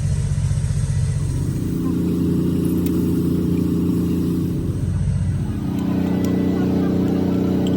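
Honda Civic engine revved up from a low idle about a second in and held at raised revs, dropping back briefly around five seconds in before rising again and holding steady.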